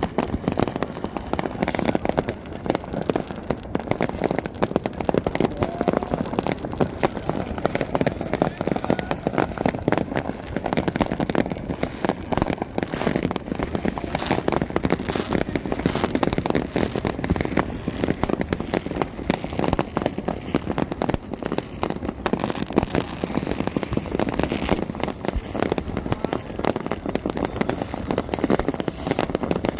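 Many fireworks and firecrackers going off at once: a continuous crackle of overlapping bangs with no pause.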